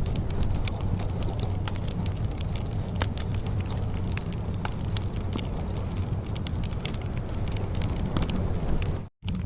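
Fireplace fire crackling, with irregular sharp pops over a steady low rumble and a soft rain hiss. The sound cuts out completely for a split second near the end.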